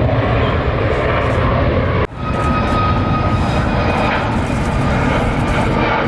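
Jet airliner engines running loud, a steady deep roar. It cuts out for an instant about two seconds in, then comes straight back.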